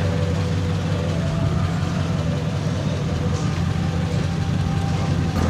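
A car engine idling steadily, a low even rumble.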